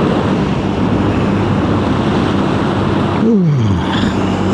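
Benelli BN 125 single-cylinder motorcycle engine running under way, under a thick rush of wind and road noise. A bit over three seconds in, the engine note drops quickly, then it settles back to a steady run.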